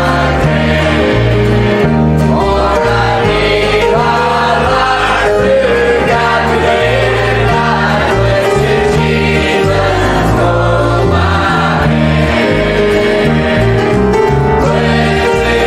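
Gospel hymn: several voices singing over an instrumental accompaniment with a bass line that moves note by note.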